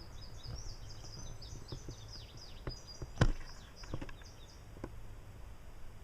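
A songbird singing a quick run of high, falling chirps that stops about four and a half seconds in. A single sharp click a little after three seconds is the loudest sound, over a low steady rumble.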